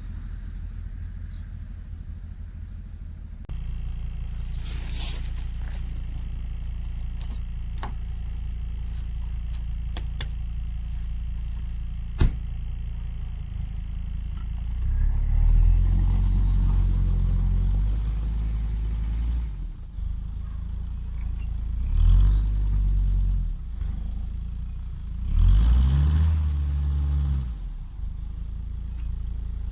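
Mercedes W210 E290's 2.9-litre five-cylinder turbodiesel idling cold after a −17 °C start, then revved three times in the second half, each rise in revs falling back to idle. A single sharp click is heard about twelve seconds in.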